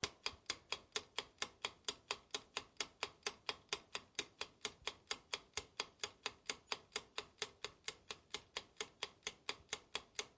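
Steady clock-like ticking, about four ticks a second, starting and stopping abruptly.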